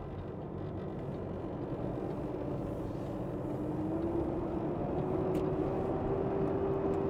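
Semi truck's diesel engine pulling away from a stop with a loaded tanker trailer, its revs climbing slowly and steadily as it picks up speed.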